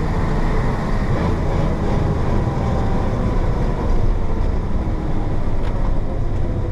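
1966 Isuzu BXD30 bonnet bus's DA640 diesel engine running steadily under way, a continuous low rumble.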